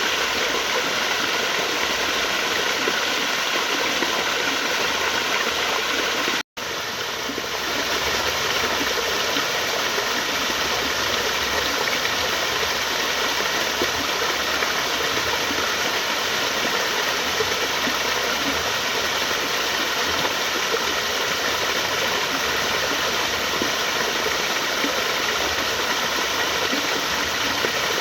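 Flowing water rushing steadily. The sound cuts out for a split second about six and a half seconds in, then resumes unchanged.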